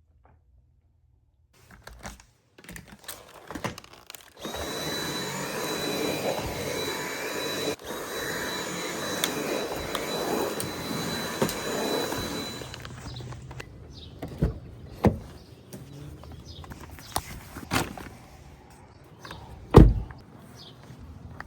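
A small electric appliance motor runs steadily for about eight seconds and then stops. Scattered clicks and knocks come before and after it, with one heavy thump near the end.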